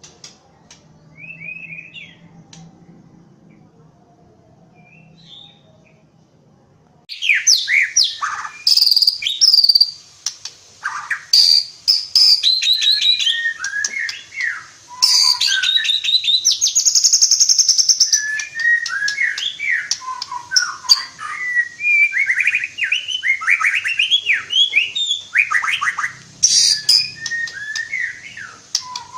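Caged songbird: a few faint chirps, then about seven seconds in a loud, rapid, highly varied song starts suddenly and keeps going, full of quick rising and falling whistled phrases and trills.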